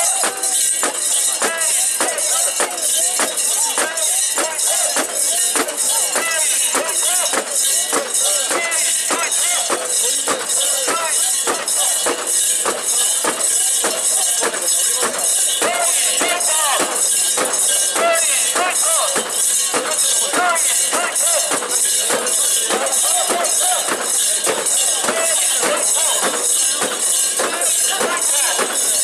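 Portable shrine (mikoshi) procession: metal fittings jangling in a steady beat about twice a second, with a crowd of bearers' voices chanting along.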